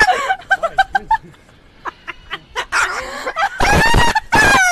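A bird calling: a quick run of short, clipped pitched notes in the first second, then two loud, harsh squawks near the end.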